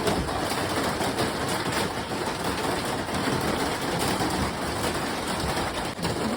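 Steady rain, an even hiss with many small taps of drops.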